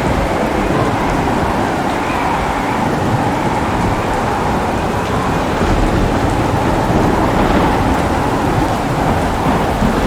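Thunderstorm: heavy, steady rain with continuous low rolling thunder underneath.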